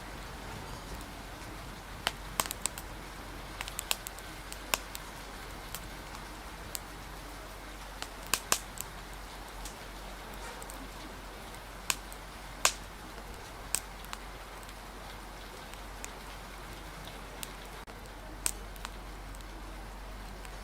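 Steady hiss of rain with the sharp, irregular pops and crackles of a wood fire scattered through it.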